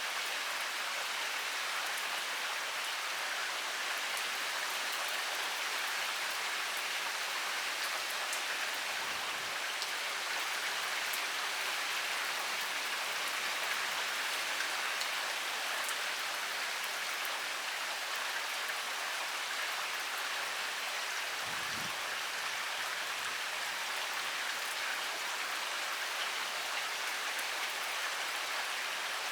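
Heavy rain pouring steadily: a dense, even hiss with scattered sharper drop impacts.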